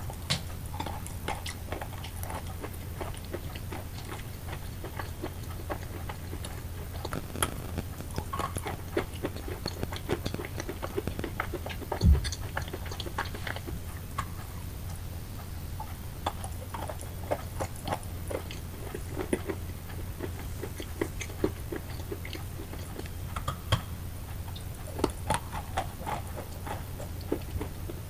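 Wet chalk being crunched up close: a steady run of small soft crackles and clicks, with one louder thump about twelve seconds in. A low steady hum runs underneath.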